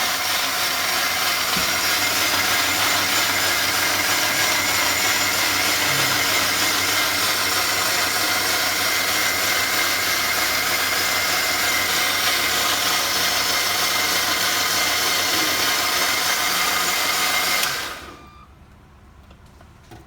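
Electric kitchen mixer grinder running at a steady speed, grinding a cooking ingredient, then switched off near the end so that the motor sound cuts off abruptly.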